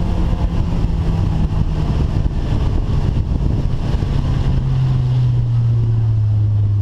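Rover 45 banger's engine heard from inside the cabin, its note falling slowly as the revs drop, over steady noise from the car.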